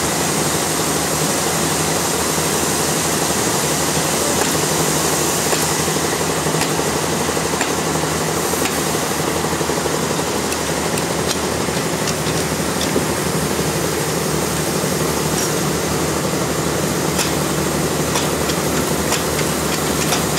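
Sawmill machinery running steadily: a continuous loud mechanical noise with a low hum, with scattered light clicks and knocks over the second half.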